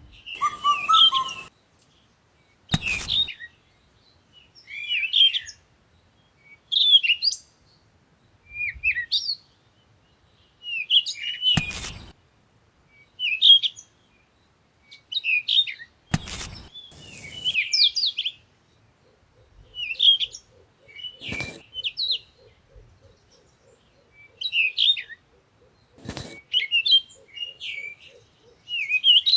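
Small birds chirping in short repeated phrases every second or two. Five sharp clicks or knocks come through the chirping, and a faint low buzz joins in the second half.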